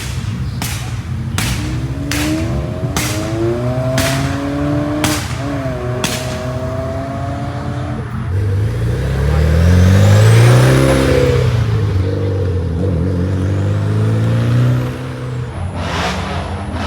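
Car engines revving: one engine's pitch climbs steadily over several seconds, then a louder, deeper engine rises and falls in pitch. A series of sharp, evenly spaced cracks runs through the first few seconds and returns near the end.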